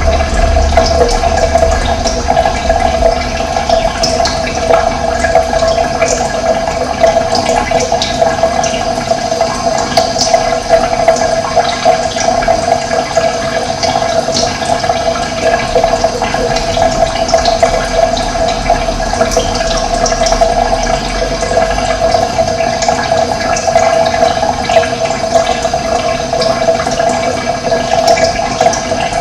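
Running water flowing steadily, a loud continuous rush.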